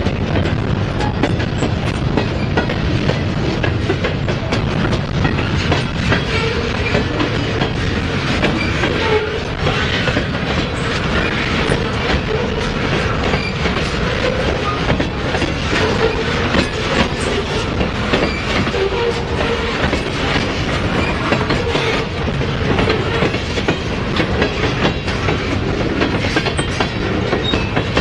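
Freight train cars rolling steadily past, steel wheels clicking over the rail joints above a continuous rumble.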